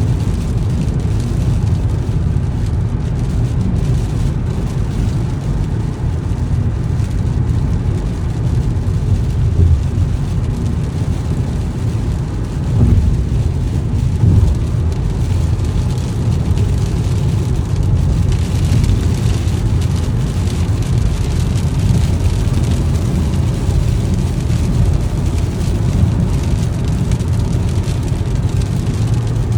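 Car driving in the rain: a steady low rumble of tyres and road noise with rain on the car mixed in, and a couple of brief low thumps a little before halfway.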